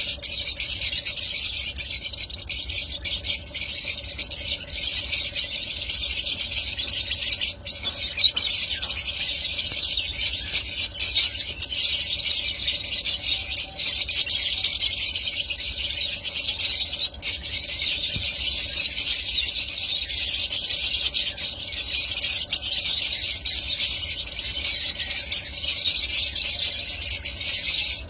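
Lovebirds chattering and squealing continuously, a dense high-pitched twittering with a brief break about seven and a half seconds in.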